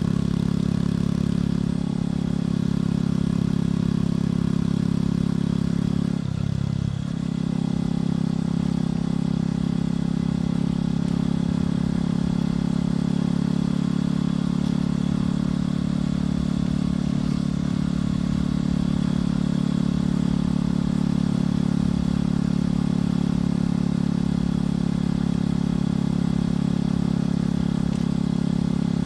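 Motorcycle engine and exhaust running at a steady pitch while riding, with a brief break in the engine note about six seconds in before it picks up again.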